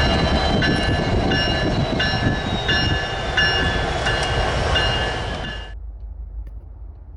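A train rumbling past with a bell ringing steadily, struck about three times every two seconds. It all cuts off suddenly about two-thirds of the way through, leaving a faint low background noise.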